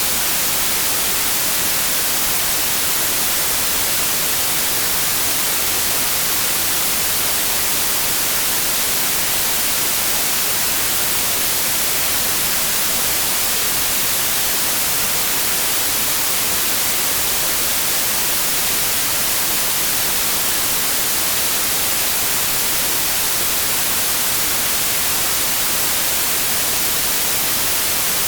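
Steady synthetic white noise: an even, unchanging hiss, brightest in the highs.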